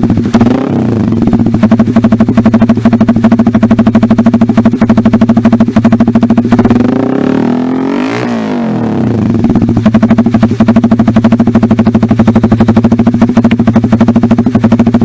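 Motorcycle engine exhausting through an aftermarket SC Project CRT/Titan-style racing silencer, idling with a loud, fast-pulsing exhaust beat. It is blipped briefly near the start and revved up and back down once around the middle.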